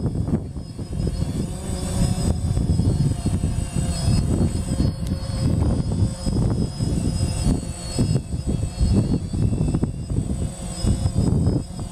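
DJI Phantom quadcopter hovering, its propellers giving a steady whine, under heavy gusty wind rumble on the microphone.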